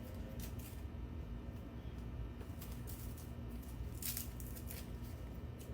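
Food being handled on a kitchen counter: a few brief rustles and light knocks, the loudest about four seconds in, over a low steady hum.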